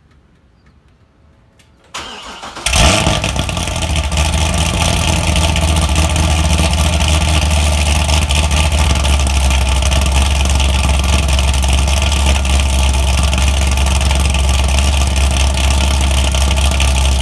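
Corvette C6 Z06's modified 7.0-litre LS7 V8, with aftermarket heads, cam, intake and a muffler-modded exhaust, cranks briefly about two seconds in and fires on a cold start. It then settles into a loud, steady cold idle with a heavy low exhaust note.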